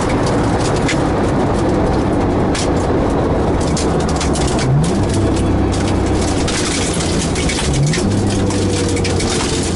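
Heard from inside the cabin: a tuned, turbocharged Nissan 300ZX V6 running at low, steady revs, with two quick rises in engine pitch, one about halfway through and one about three seconds later.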